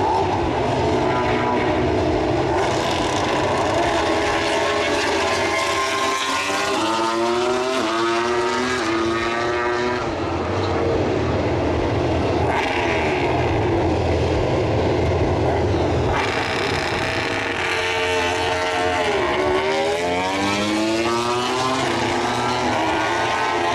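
MotoGP racing motorcycles' engines, several bikes at once, loud and high-revving. Twice the pitch climbs in a series of rising sweeps as bikes pull away from practice starts, first about six seconds in and again near the end.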